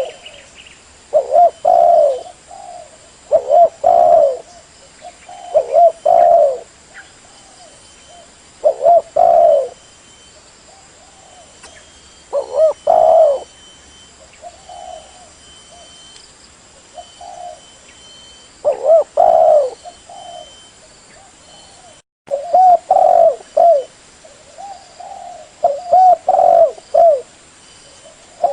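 Spotted dove (derkuku) cooing: short phrases of a few low coos, repeated every two to three seconds.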